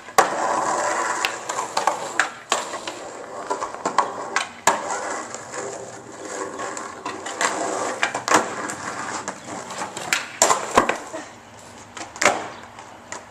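Skateboard rolling with a steady rumble of the wheels, broken by sharp clacks of the board hitting the ground every second or two, several close together near the end.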